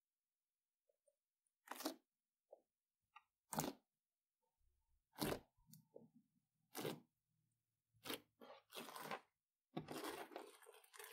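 Slime being squeezed and pressed by hand, giving a run of short crunchy crackles every second or two, with a longer crackling stretch near the end.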